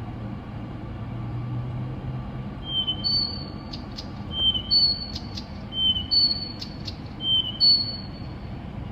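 A songbird repeats a short whistled phrase four times, about every one and a half seconds, starting about three seconds in: a lower steady note, then a higher one, with sharp clicks. The recordist guesses it is a Siberian nightingale. A low steady hum lies under the first two seconds.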